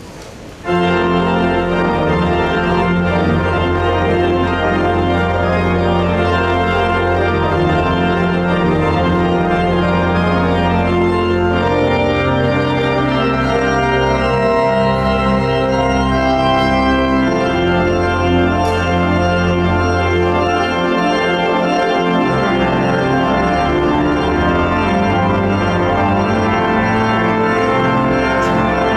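Pipe organ playing a solo, entering loud and full under a second in, with sustained chords on the manuals over a deep pedal bass. It is a toccata-style setting of a Taiwanese folk tune.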